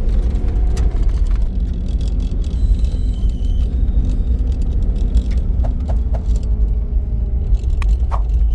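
A car driving along, with a steady low road and engine rumble and a few light clicks.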